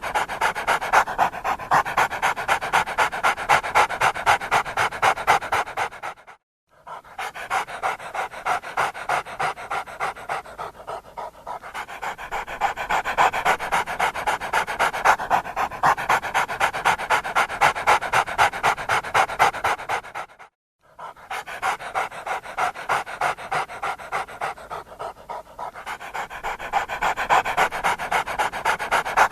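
Siberian husky panting fast in a steady rhythm, cutting out briefly twice.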